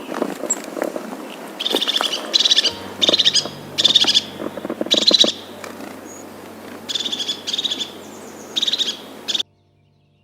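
Bird calling in a series of short, rapidly pulsed high calls, about eight in two groups with a pause between, then the sound cuts off abruptly.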